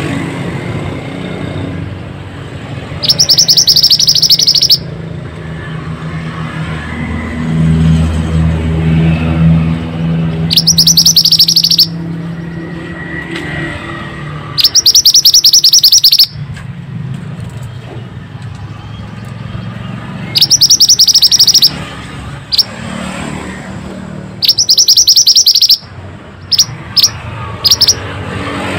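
Pied bushchat (mantenan) singing: five loud bursts of rapid, high, buzzy trills, each about a second and a half long, with a few short chirps near the end. A low rumble runs underneath.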